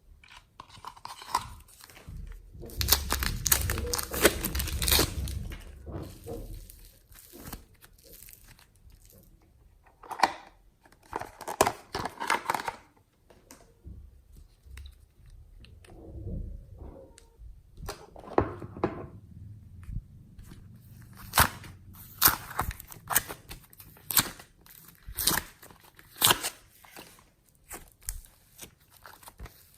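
Hands squishing and mixing slime: crunchy, crinkly crackling and sticky tearing sounds in irregular bursts, with sharp clicks and pops. The loudest, longest stretch comes a few seconds in.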